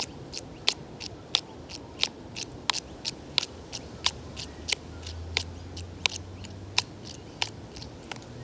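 Found natural objects such as sticks and stones struck together as hand percussion: sharp clicks on a steady pulse of about one and a half a second, with further lighter clicks falling between the beats as a second player improvises.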